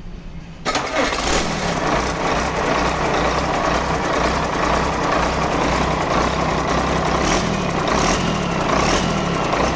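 Engine on a ground test, started without throttle, catching under a second in and then idling steadily.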